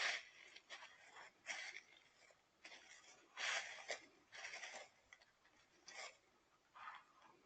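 A series of short rustling, scraping noises, about eight of them at uneven gaps, with no voice.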